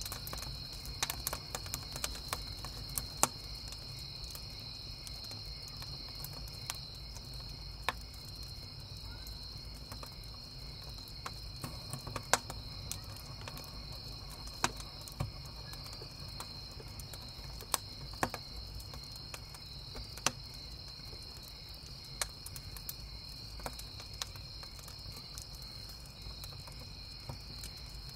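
Crickets chirping in a steady high trill, with a wood campfire crackling over it in scattered sharp pops, a few louder than the rest. A low steady rumble sits underneath.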